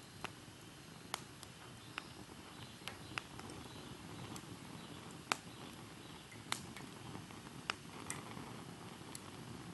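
Wood fire burning in a Picogrill 498 fire pit: a steady low rumble of flames with about ten sharp crackles and pops at irregular intervals, the loudest pop a little past the middle.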